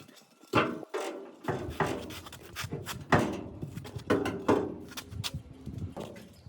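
Irregular knocks, each with a short ring, about one a second, with rubbing and scraping between them.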